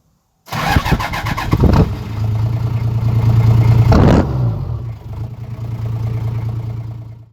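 Toyota 1VD V8 turbo diesel engine cranking and catching, running up to a brief rev about four seconds in, then dropping back to a steady idle.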